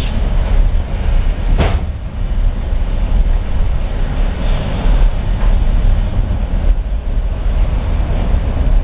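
Passenger train rolling along the track, heard from on board: a steady low rumble with a sharp click about a second and a half in.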